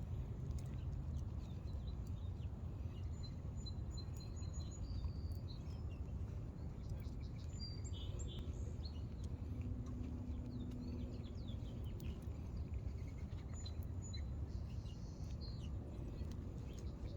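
Small birds chirping on and off over a steady low background rumble, with a few faint clicks.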